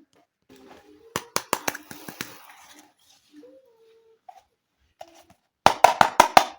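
Small plastic toy pieces clicking and tapping as they are handled, in two quick runs of sharp clicks, the louder run near the end.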